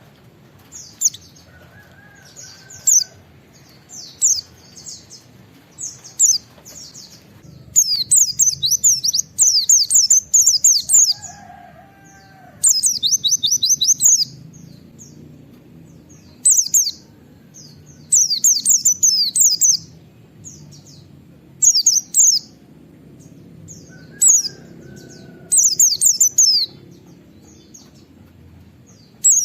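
White-eye (pleci) singing in short, very high bursts of rapid-fire sweeping notes, its 'nembak' song, each burst repeated after a pause of a second or two. Faint lower calls come in a few times beneath it.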